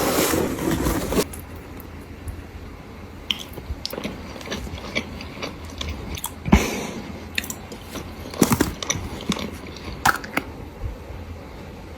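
A person biting into and chewing Neapolitan pizza close to the microphone: a loud noisy stretch in the first second, then steady chewing with scattered mouth clicks and a few louder bites.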